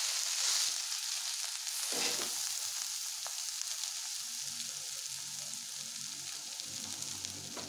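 Green beans and grated coconut sizzling in oil in a kadai while being stirred: a steady frying hiss with a few light scrapes, easing slightly after the first couple of seconds.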